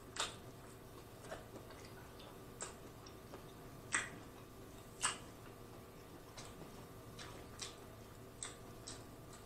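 Mouth smacks and wet clicks of someone chewing lobster tail meat close to the microphone: about ten short, sharp ones at uneven intervals, the loudest about four and five seconds in.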